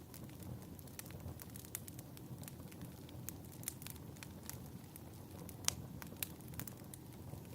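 Fireplace crackling: a steady low rumble of burning with frequent sharp pops and snaps, one louder pop a little before six seconds in.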